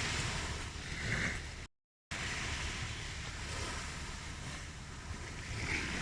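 Ocean waves washing on a shore, a soft, steady rush of surf, cut by a brief complete dropout to silence just under two seconds in.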